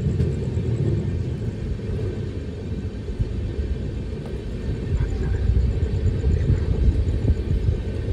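Running noise of a moving express passenger train, heard from the side of its coach: a steady low rumble of the wheels on the track.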